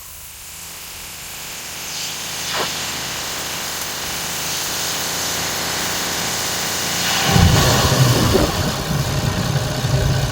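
Diesel earthmoving machinery at work: a steady rushing engine noise that slowly grows, then a loud, low diesel engine rumble comes in about seven seconds in.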